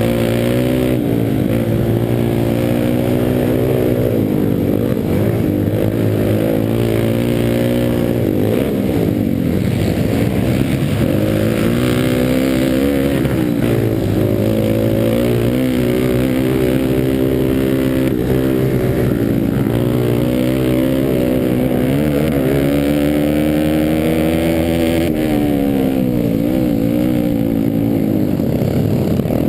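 Pit bike engine revving hard in a race, its pitch climbing and dropping again and again as the rider accelerates, shifts and rolls off the throttle.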